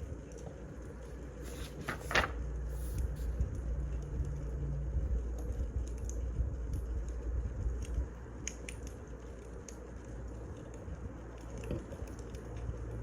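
Wood fire burning: a steady low rumble with scattered small crackles and one louder pop about two seconds in.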